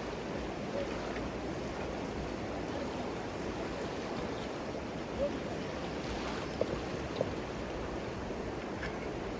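A river running steadily, with a few faint brief ticks between about five and seven seconds in.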